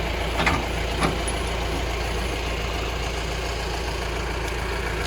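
Engine of a 4x4 vehicle idling steadily, with two short knocks about half a second and a second in.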